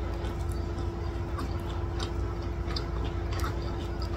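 Close-miked chewing of rice and chicken curry, with many small wet mouth clicks, while fingers mix rice and gravy on the plate. A steady low hum runs underneath.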